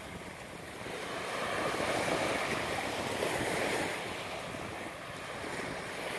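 Ocean surf washing onto the beach, with wind buffeting the microphone. The wash swells about a second in and eases off again in the second half.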